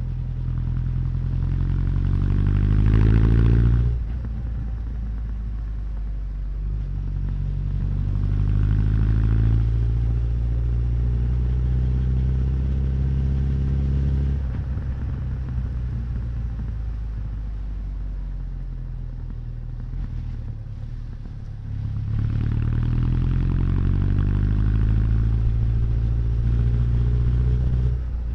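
Honda CB1100's air-cooled inline-four engine and exhaust under way. Revs climb under acceleration and drop sharply at a gear change about four seconds in. They rise again around eight to ten seconds, ease off after about fourteen seconds, and pull up once more from about twenty-two seconds.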